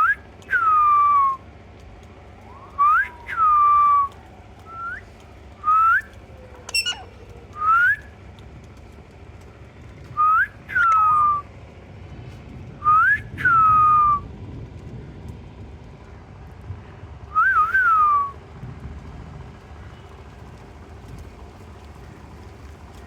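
Pet parrot whistling: a string of clear, short whistled notes that swoop up or drop down, coming every one to four seconds with pauses between.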